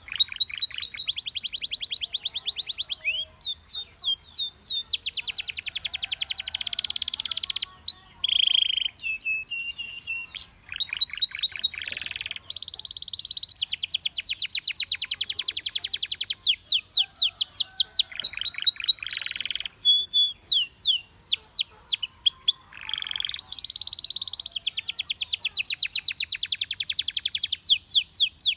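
Canary singing a continuous song of fast trills and rolls, each run of rapid repeated notes lasting a second or two, broken by short high whistled notes and quick rising and falling glides.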